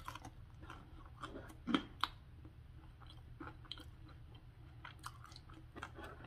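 Close-up mouth sounds of a person chewing chili cheese fries with the mouth closed: soft, scattered wet clicks and small crunches, a little louder about two seconds in.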